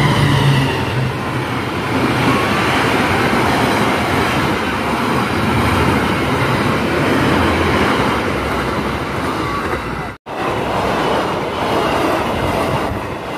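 Passenger trains passing close by on the rails: a diesel locomotive's low engine drone at the start, then the steady rolling noise of the carriages' wheels on the track. The sound cuts out for a moment about ten seconds in and picks up again with another passing train.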